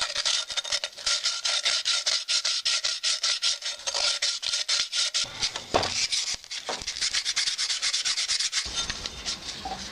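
An old kettle being rubbed down by hand with rapid back-and-forth strokes, several a second, which stop a little over a second before the end.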